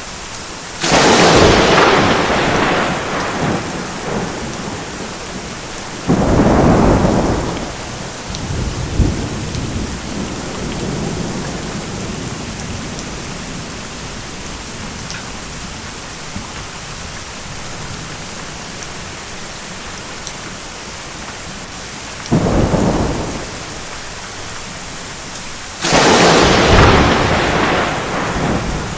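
Thunderstorm: steady heavy rain hiss with four sudden thunder cracks, about a second in, around six seconds, and two close together near the end, each dying away over a second or two.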